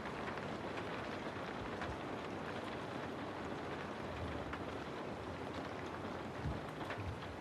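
Steady rain falling on a house, a dense even hiss with scattered drop ticks, and a few low thumps near the end.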